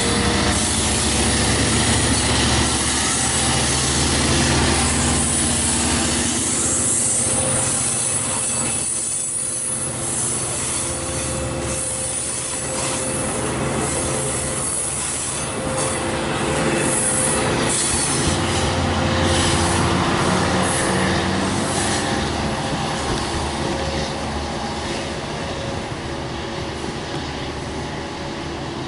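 Long Island Rail Road diesel train, a DE30AC locomotive with C3 coaches, rolling by, with steady engine tones, wheels squealing on the rails and some clickety-clack. The sound fades slowly toward the end.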